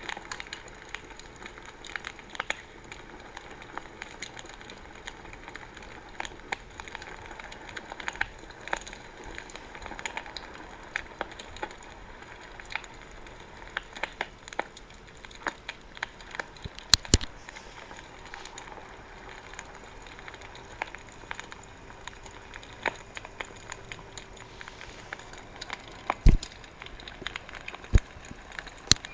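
Wood fire burning with steady crackling and scattered sharp pops, a few louder snaps standing out near the end.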